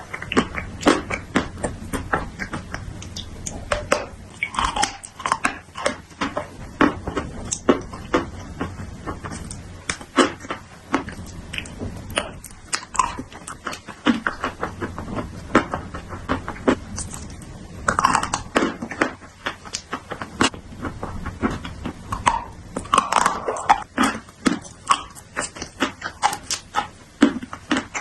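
Slate pencil pieces being bitten and chewed close to the microphone: a dense, irregular run of sharp crunches and cracks.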